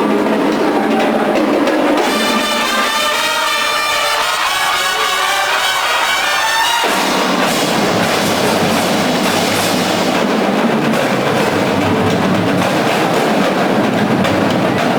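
Marching band playing: brass (trumpets and trombones) over drums and percussion. About two seconds in the low parts drop away, leaving the higher brass, and about seven seconds in the full band with the low brass comes back in.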